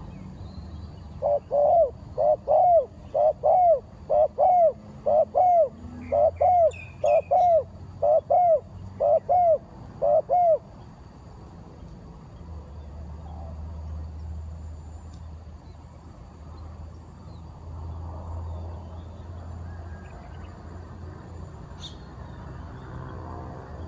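A bird calling: a series of about twelve loud, evenly spaced hooting notes, a little over one a second, that stops about ten seconds in. Faint higher chirps of other birds come in midway.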